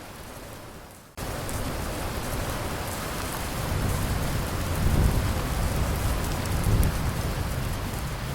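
Steady heavy rain hiss that jumps suddenly louder about a second in, with low rolling thunder rumbling through the middle.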